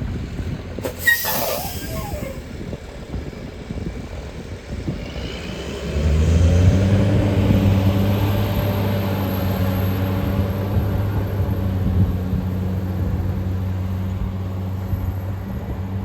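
Parking-lot tram pulling away after dispatch: a short hiss of air about a second in, then from about six seconds in the tractor's engine drones, its pitch lifting briefly as it gets under way and then holding steady.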